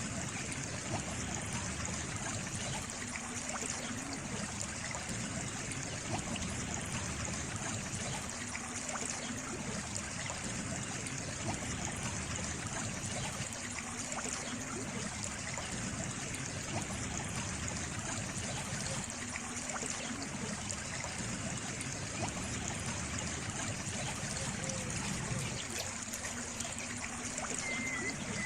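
Steady trickle of running water, an even, unbroken rush.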